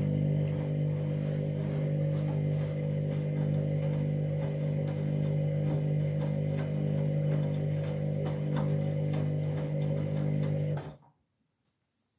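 Candy washing machine running mid-wash with a steady, even-pitched hum and faint scattered clicks, which stops abruptly near the end.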